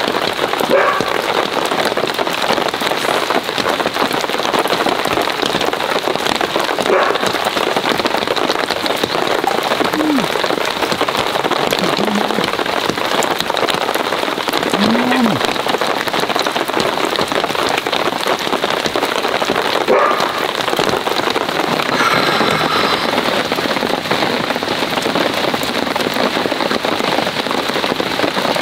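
Heavy rain falling steadily on a tarp overhead, an even, unbroken noise.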